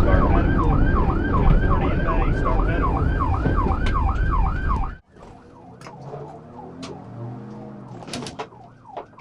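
Police car siren on yelp, rapid rising-and-falling wails about three times a second, over heavy road and engine noise during a high-speed pursuit. About five seconds in the sound cuts off abruptly to a much quieter passage, with the siren faint near the end.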